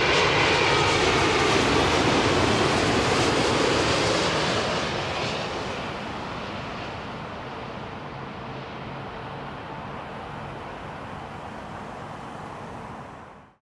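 Jet airliner passing close by on landing, its engines loud with a high whine, then fading away after about four or five seconds. The sound cuts off sharply near the end.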